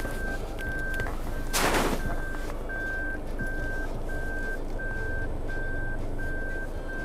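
A car's reversing warning beeper sounding at one steady pitch, about one and a half beeps a second, over a low engine rumble, with a short loud hissing burst about a second and a half in.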